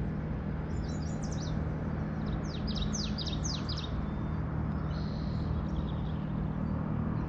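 A songbird calling in two quick runs of high, down-slurred chirps, about a second in and again around three seconds in, over a steady low hum and constant background noise.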